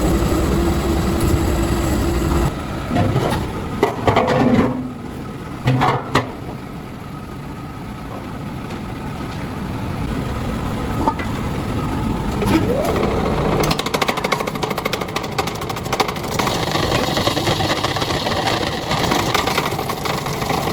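Workshop machinery in a metal cooking-pot works: a motor running with a steady hum, a few sharp metal knocks a few seconds in, then a fast continuous rattle from about two-thirds of the way through.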